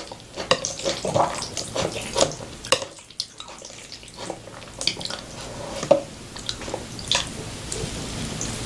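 Close-miked eating sounds: wet chewing and mouth smacks in an irregular patter of short clicks.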